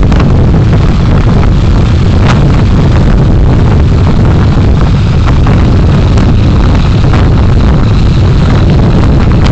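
Steady road and engine rumble of a car driving, picked up by a dashcam microphone, loud and heavy in the low end, with a few short knocks or rattles.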